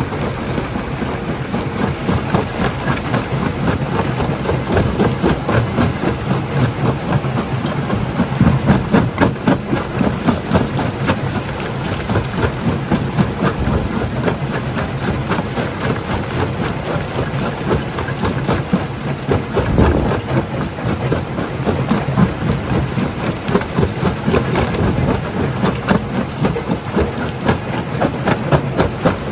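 Rock crusher running and crushing stone: a steady heavy machine drone under constant rattling and crunching of rock, swelling a little now and then.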